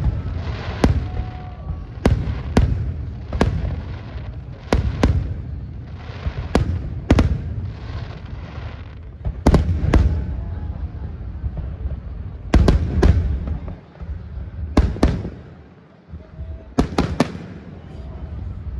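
Fireworks display: shells bursting in sharp bangs, often two in quick succession, every second or two over a low, continuous rumble.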